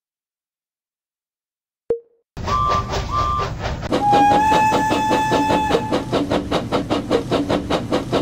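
Steam-locomotive sounds, like a Thomas & Friends engine's sound effect. A click is followed by fast rhythmic chuffing, with two short whistle toots and then one long whistle blast. The chuffing continues and then cuts off abruptly.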